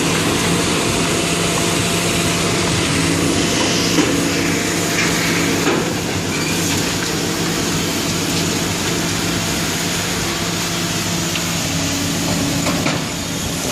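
Heavy demolition machinery's engine running steadily, with knocking and crunching of rubble; a sharp knock about four seconds in and another about six seconds in.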